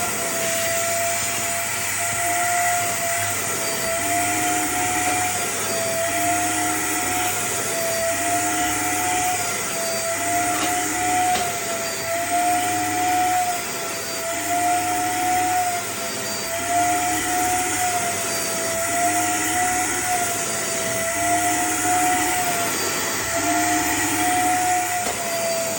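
Nunix vacuum cleaner running, a steady motor whine over the hiss of rushing air, drawn over a seat to suck up dust. Its pitch and airflow dip slightly about every two seconds as the nozzle is worked back and forth.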